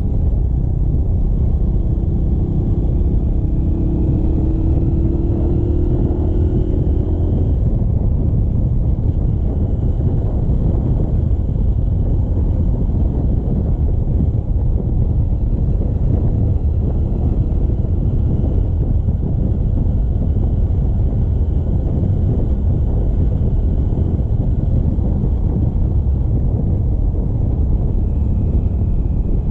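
Motorcycle being ridden on the road: a steady low rumble of engine, wind and road noise, with a faint engine whine that rises slowly in pitch during the first several seconds.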